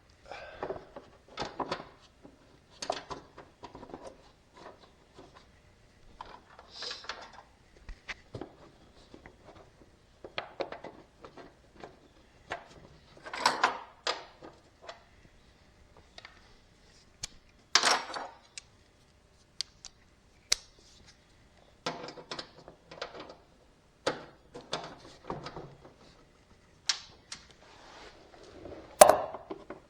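Intermittent clicks, clinks and clatter of hand tools and metal parts being handled during mower repair work, with three louder knocks spread through.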